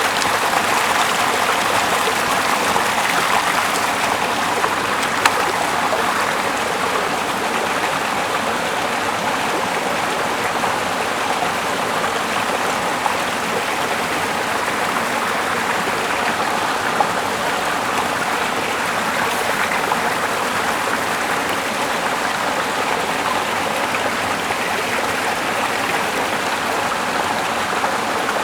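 A small river flowing, a steady rush of water, with a few faint clicks standing out from it now and then.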